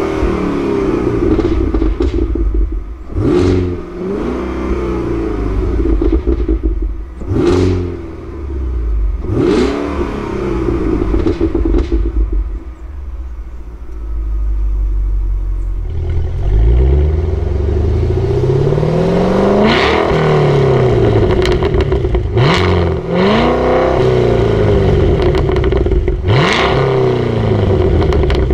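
Cadillac Escalade V's supercharged 6.2-litre V8 running hard. Its pitch climbs and drops back sharply again and again, with a sharp crack at several of the drops.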